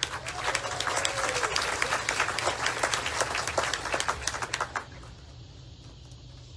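Audience applauding with many separate claps, dying away about five seconds in.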